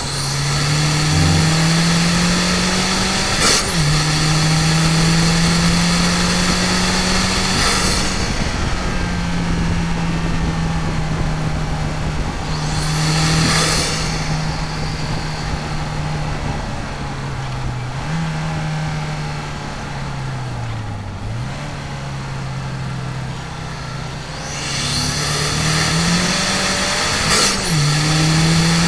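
Mazdaspeed3's turbocharged four-cylinder engine heard from inside the cabin at full throttle on track. The engine note climbs and drops with an upshift a few seconds in, then climbs again. Through the middle it runs lower and steadier, off full throttle, with a brief dip. Near the end it climbs hard again through another upshift.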